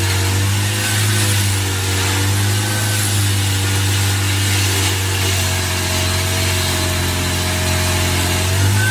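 Heavy forestry machine's engine running steadily, with a faint whine that comes in about five seconds in and rises slightly.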